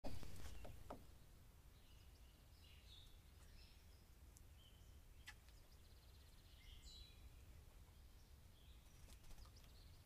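Faint wild birds calling: a few short chirps and trills here and there, over a steady low background rumble. A few sharp clicks in the first second.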